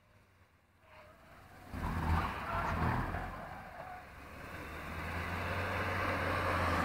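Kia Rio hatchback's engine as the car drives away from a spin and comes back toward the listener. It starts about a second and a half in, eases off around the middle, then its steady hum grows louder as the car draws nearer.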